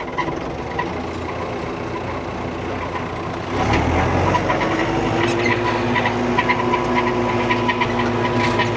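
Old tractor's engine running, heard from inside the cab; about three and a half seconds in it grows louder and its note rises a little as it takes on more throttle.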